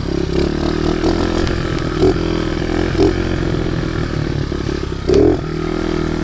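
Small Baja pit bike engine running steadily as it is ridden, with brief louder moments about two, three and five seconds in.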